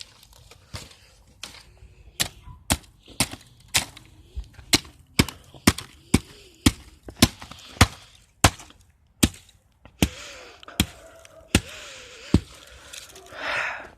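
Repeated hard blows smashing a laptop, about two strikes a second for roughly ten seconds, each a sharp crack. A short noisy burst follows near the end.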